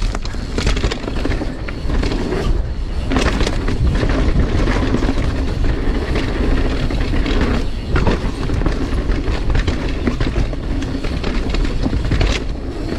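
Mountain bike rolling fast down a dirt trail: steady tyre and wind noise with the bike rattling over rough ground. A few sharp knocks stand out, about three seconds in, near eight seconds and near the end, fitting small jumps and landings.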